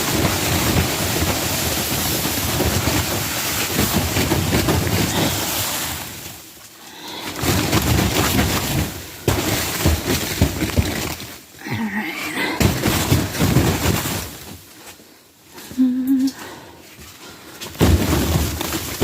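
Snow being knocked off the plastic-covered roof of a cattle-panel greenhouse: long rushing slides of snow down the sheeting, four or so in a row with short breaks between.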